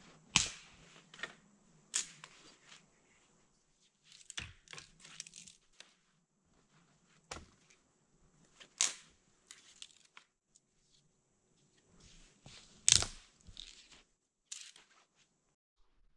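Dry branches and twigs snapping as they are broken by hand: a series of sharp cracks every second or two, with smaller crackles between, the loudest about 13 seconds in.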